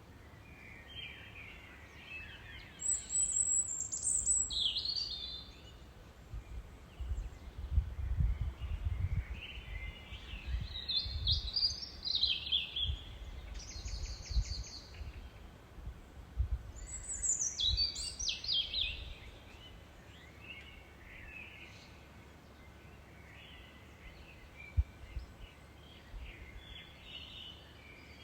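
Songbirds singing in short bursts of rapid chirps and trills, several phrases with pauses between them. Underneath there is a low, uneven rumble through the middle stretch.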